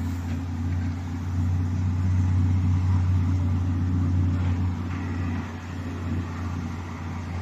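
Heavy truck's 360-horsepower diesel engine running steadily at cruising speed in a high gear, a low even drone with a slight dip around the middle.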